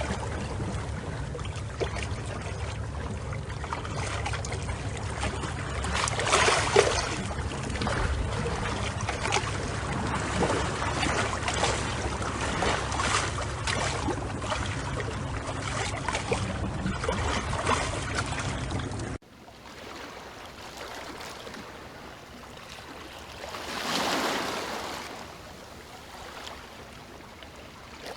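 Moving water: loud, churning water with a deep rumble and many small splashes, then an abrupt cut, about two-thirds of the way in, to quieter water in which one gentle wave swells and washes back.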